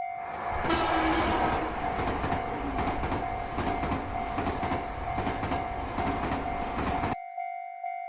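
A train passing a railroad crossing, its wheels clattering over the rail joints; the train noise cuts off abruptly about seven seconds in. The crossing's warning bell, a single ding about twice a second, is heard at the start and again after the train.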